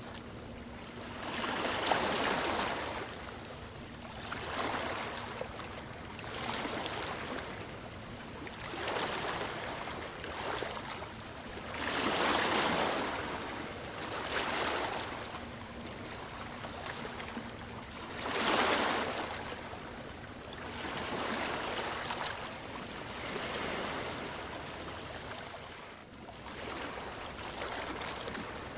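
Small waves washing in over and over, each swell of surf rising and falling over a second or two, with a steady wash of water between them.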